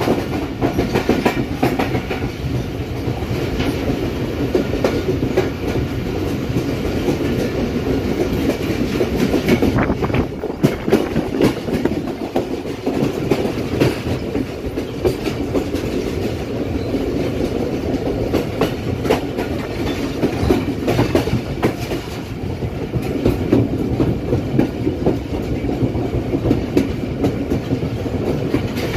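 The Karakoram Express, a passenger express train, running through a station at speed, heard from inside a coach at an open window. A steady rumble of wheels on the track is broken by frequent irregular clacks.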